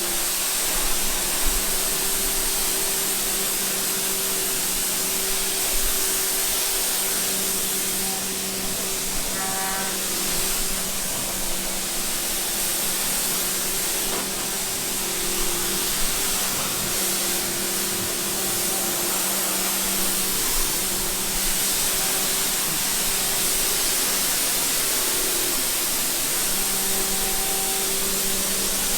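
Water spraying steadily over a steady motor hum, as when the floor and surfaces of a bird enclosure are washed down.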